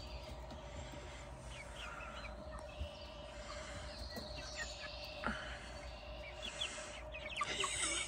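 Faint, short bird chirps scattered through a quiet outdoor background, over a faint steady hum, with an occasional light tick.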